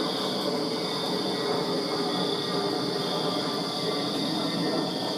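Crickets chirping in a steady, continuous chorus over a steady low rumble from a machine or vehicle.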